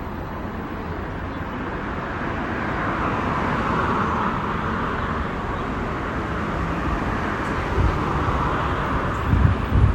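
A passing motor vehicle: its road noise swells to a peak about four seconds in, then slowly eases. Low, irregular buffeting starts near the end.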